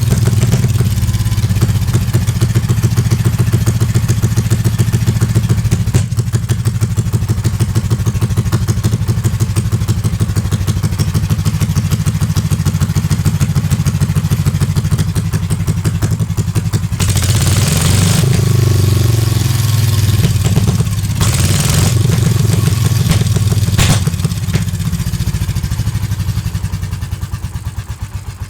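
Restored Condor Guidetti A320 engine running steadily with an even thudding pulse, with a few brief hissy bursts about two-thirds of the way through. Near the end it slows and fades as the engine is run down.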